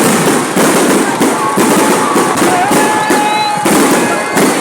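Fireworks going off in quick succession, a dense, continuous run of loud bangs and crackles, with a few held tones rising over them about three seconds in.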